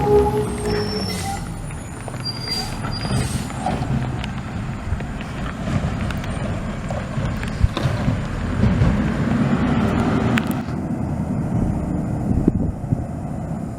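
Garbage truck's diesel engine running, with a few brief high squeaks in the first few seconds.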